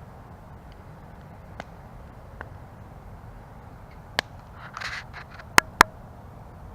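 Wood campfire burning with a steady low rush of flames, scattered crackles and a brief flurry of crackling, then two sharp pops in quick succession near the end.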